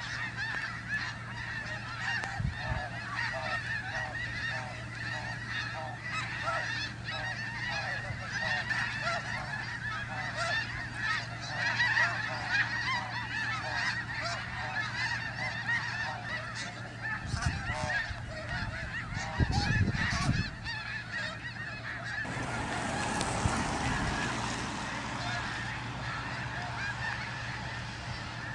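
A large flock of snow geese calling all at once: a dense, continuous din of overlapping honks. Some low thumps come about two-thirds of the way in, and a broad rushing noise swells in near the end.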